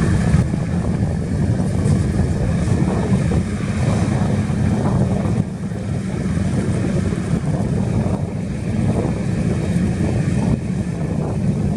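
Heavy diesel engine of earthmoving machinery running steadily under load, a constant low drone.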